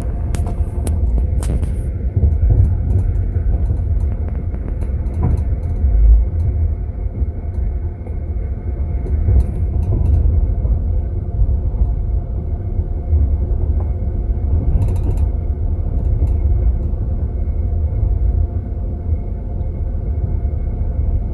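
Steady low rumble of a moving passenger train, heard from inside a sleeper compartment, with a few faint clicks and creaks.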